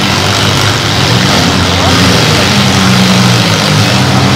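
Several compact demolition-derby cars' engines running hard at high revs, their pitch stepping up and down as they strain against each other, over a steady din of crowd voices.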